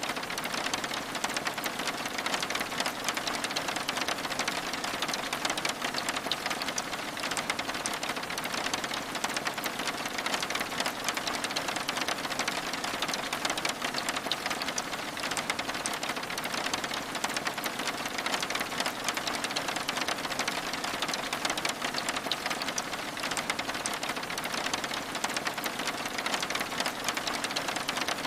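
Steady rain on window glass: a dense, even patter of drops, made of many small ticks, that neither swells nor fades.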